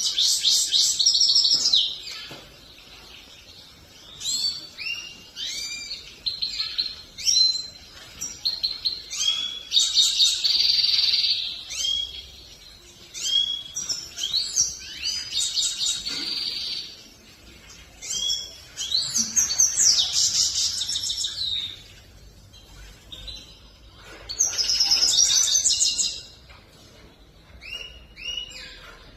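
Grey-headed goldfinch singing: long runs of rapid, high twittering chirps and buzzy trills, broken several times by pauses of a second or two.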